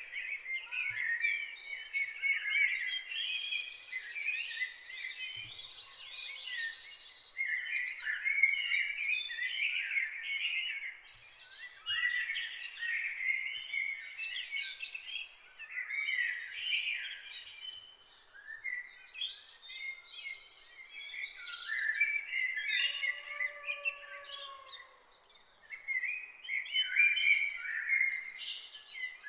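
Several songbirds singing and chirping over one another in a dense, continuous morning chorus of quick, high trills and whistles. About three-quarters of the way through, a lower, drawn-out call joins briefly.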